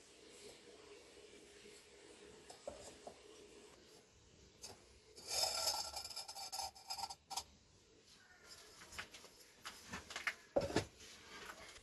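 Bisque-fired pottery being handled and lifted out of a wood-fired kiln: fired clay scraping and rubbing, loudest a little past the middle, with light clicks and a sharper knock near the end.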